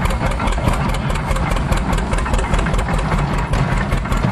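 Antique tractor engine running steadily with a fast, even beat, driving a flat belt that powers an old stationary hay press.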